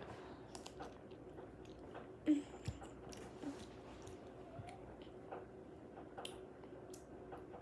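A person chewing a cherry with the mouth close to the microphone: scattered small wet clicks and smacks, with one brief louder mouth sound a little over two seconds in.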